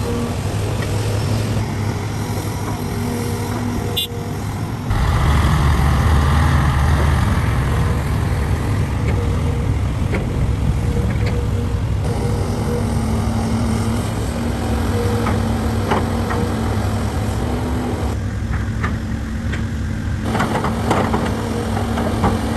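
Heavy diesel machinery engines running steadily, getting louder about five seconds in, with scattered knocks.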